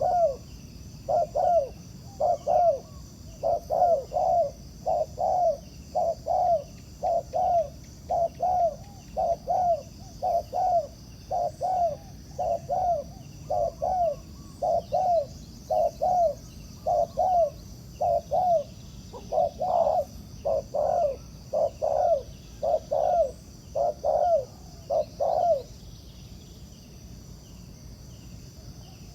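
Spotted dove cooing: a long run of short, low coos, about two a second and often paired, that stops a few seconds before the end. A steady high-pitched drone and faint small chirps sit in the background.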